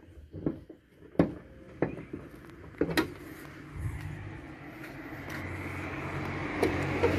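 A few sharp clicks and knocks as the car's bonnet is released and lifted. Then a steady low running hum comes in and grows louder as the engine bay opens up: the Suzuki Liana's engine idling.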